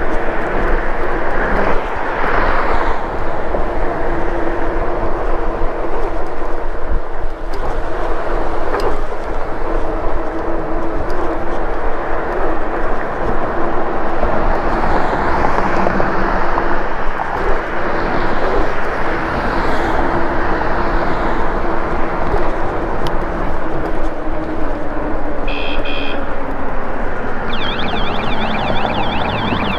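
Lectric e-bike riding along, with steady wind and road noise and a low steady hum. Near the end a few short high beeps sound, then the bike's electronic alarm starts a rapid warbling wail, set off by itself while the rider believed it was turned off.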